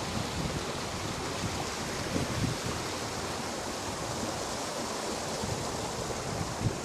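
Steady rush of water from a waterfall and its stream, an even hiss with a few brief low thumps.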